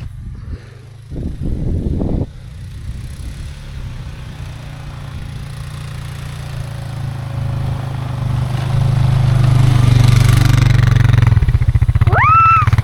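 Four-wheeler (ATV) engine running, with a short rev about a second in, then growing louder from about eight seconds in. A person's shout comes near the end.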